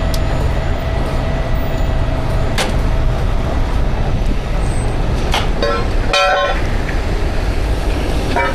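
Heavy wrecker's diesel engine running steadily as a low rumble, with a sharp click about two and a half seconds in and a brief higher-pitched sound around six seconds.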